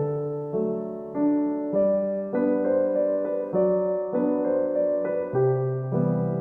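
Background piano music: soft chords struck in an even pulse, a little under two a second, each fading before the next.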